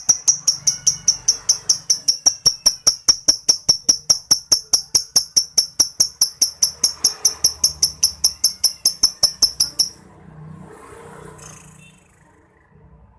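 Lovebird 'ngetik' (typing) call: a rapid, even run of sharp, high clicking chirps, about five a second, that stops abruptly about ten seconds in. Bird keepers use this call to provoke lovebirds that won't sing.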